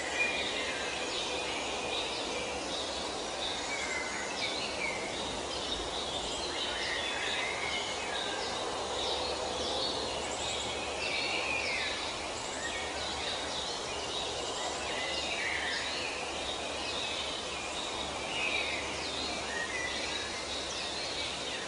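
Many birds chirping and singing at once over a steady outdoor background hiss, a busy chorus of short overlapping calls.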